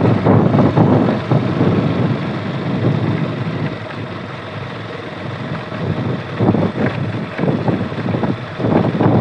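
Wind buffeting the microphone of a moving KTM RC 200 motorcycle, with engine and road noise beneath. It eases a little about four seconds in, then picks up again.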